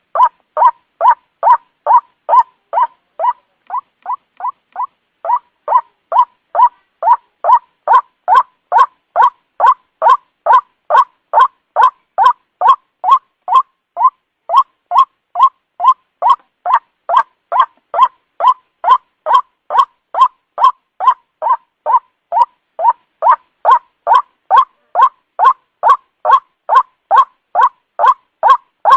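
White-breasted waterhen (ruak-ruak) lure call: a steady, monotonous series of short, loud croaking 'kruak' notes, about two a second, with a few slightly quieter notes about four seconds in.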